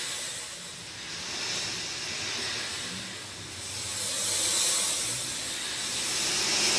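Steady rain falling as an even hiss, swelling and easing in slow waves every two or three seconds.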